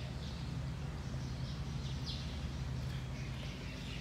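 Small birds chirping in short calls several times, over a steady low hum.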